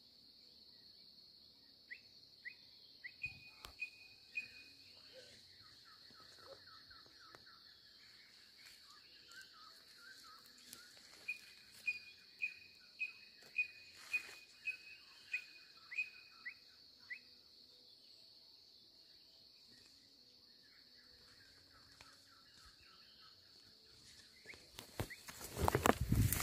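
Birds calling outdoors in runs of short, evenly spaced chirps, about two a second, over an insect's steady high-pitched buzz. Near the end, loud rustling and knocks as the camera is handled and moved through the brush.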